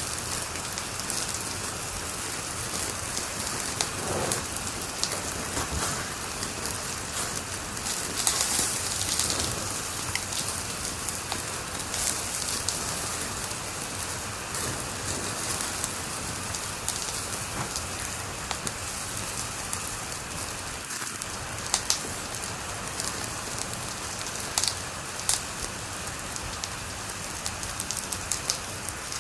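Wood fire crackling in a fireplace: a steady hiss with frequent sharp pops and snaps, and a denser flurry of crackles about eight seconds in.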